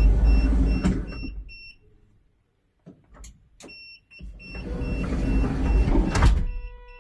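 Kaiman electric sliding-door drive on a GAZ Sobol NN van running the side door along its track with a motor whir and an on-off warning beep. It stops about two seconds in, then after a couple of clicks runs again and ends in a loud knock as the door latches, followed by a steady tone.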